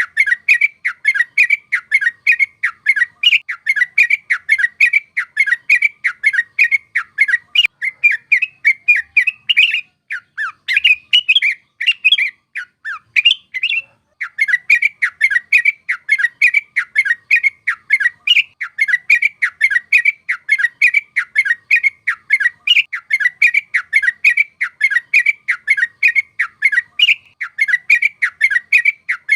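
Yellow-vented bulbul (trucuk) singing a long, rolling run of short quick notes, about two or three a second. The run turns sparser and more irregular about ten seconds in, then picks up again.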